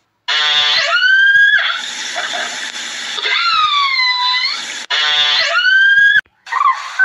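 Dolphin calls: a rapid train of clicks running into a rising whistle, then a whistle that dips and rises again, then the same click-and-rising-whistle call once more.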